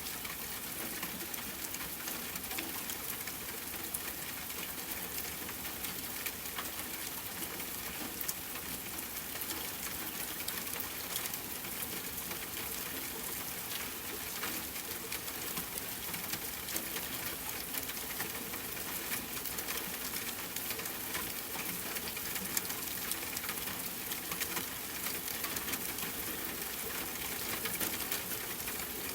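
Steady rainfall hissing, with many small sharp crackles of a wood fire scattered through it.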